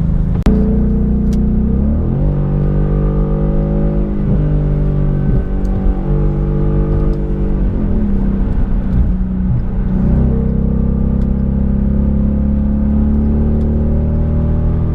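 2015 Ford Mustang GT's 5.0 V8 through an MBRP race cat-back exhaust, accelerating hard on the highway. The pitch climbs and then steps down at several gear changes. A sharp click about half a second in.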